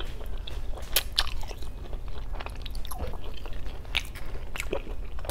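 Close-miked chewing of boiled pork hock, its soft fatty skin and meat giving a run of short wet clicks and smacks in the mouth.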